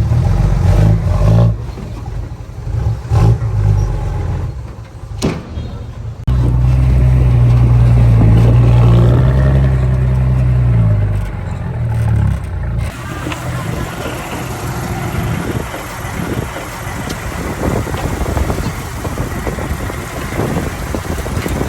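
Heavy diesel earthmoving machinery running, the engine rising and falling; it is loudest and steadiest from about six to thirteen seconds in, then gives way to a rougher, noisier working sound.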